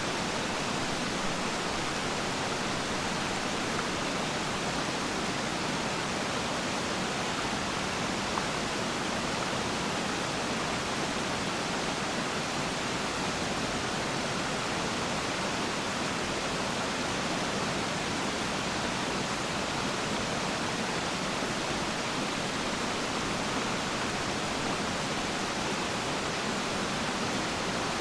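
Water of Peiran Falls rushing steadily, an even, unchanging hiss and roar of falling and flowing water.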